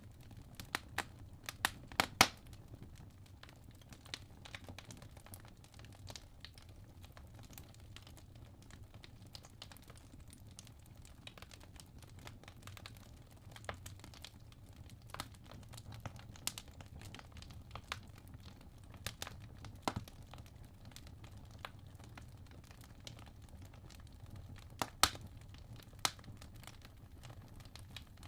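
Burning wood logs crackling in a fireplace: irregular sharp pops and snaps, a cluster of them about two seconds in and a loud pop near the end, over a soft steady low rumble of the flames.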